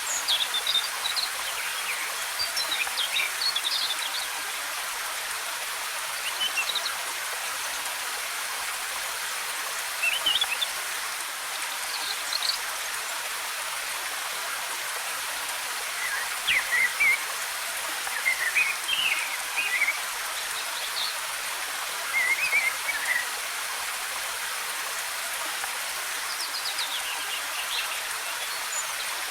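Waterfall giving a steady hiss of falling water, with small forest birds chirping and trilling in short high phrases every few seconds over it.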